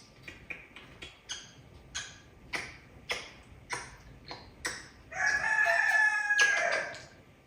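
African grey parrot mimicking a rooster's crow: one long pitched call of nearly two seconds, about five seconds in, after a run of sharp clicks.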